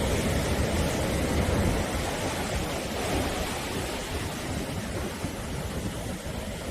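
Sea surf washing on the shore: a continuous rush of breaking waves, a little fuller in the first couple of seconds and easing slightly after.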